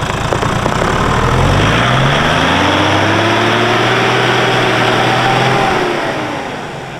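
Toyota LandCruiser Troop Carrier engine revving hard under load as the four-wheel drive tries to climb out of soft dune sand over recovery boards, with one wheel in the air. The engine note climbs over the first couple of seconds, holds steady, then eases off near the end.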